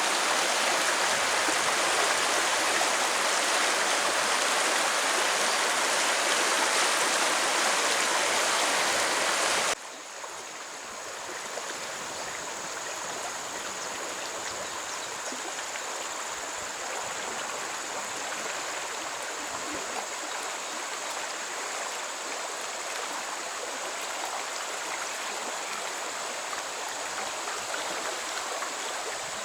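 Steady rush of running stream water. About a third of the way through it drops suddenly to a quieter, softer rush.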